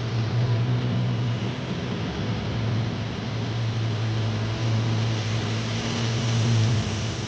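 A motor vehicle's engine running steadily nearby: a low, even hum under a noisy hiss, swelling slightly near the end.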